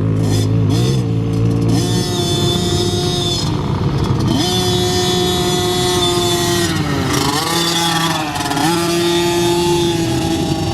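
Small two-stroke mini dirt bike engine revving under way. The engine note climbs, holds high, then drops and climbs again twice as the throttle eases and opens.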